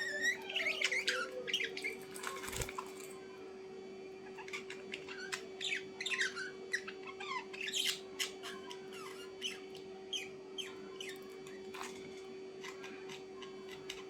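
Birds chirping and squawking in many short, quick calls, with a steady hum underneath.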